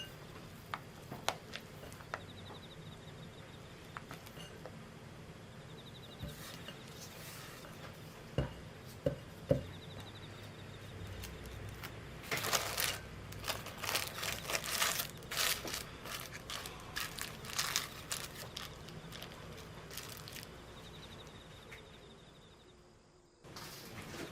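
Kitchen handling sounds: scattered light clicks and knocks, then several seconds of crackling, rustling strokes, fading out near the end.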